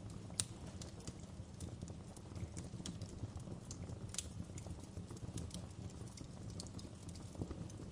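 Wood fire burning in a fireplace: a steady low rumble of flames with irregular sharp crackles and pops, one louder pop about half a second in and another around four seconds in.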